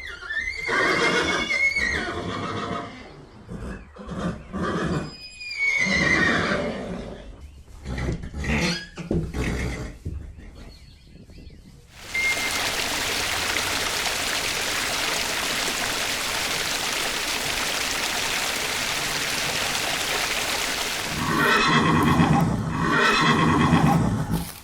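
A horse whinnying and neighing several times in the first half, then a steady hiss for several seconds, then more whinnies near the end.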